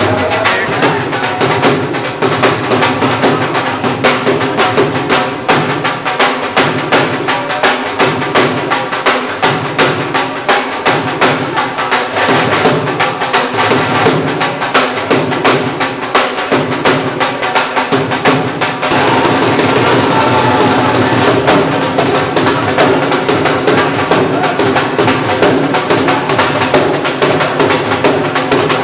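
Instrumental Himachali folk music with fast, steady drumming and pitched instruments, no singing; the sound grows fuller and steadier about two-thirds of the way through.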